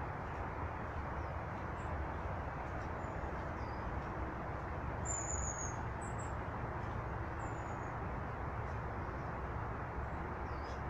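A few short, faint high chirps from small birds, the clearest a quick falling note about halfway through, over a steady low rushing noise.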